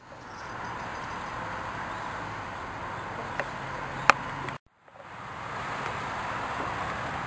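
Steady outdoor background noise with no clear single source, broken by a sharp click about four seconds in. The sound cuts out to silence briefly about halfway through and then fades back up.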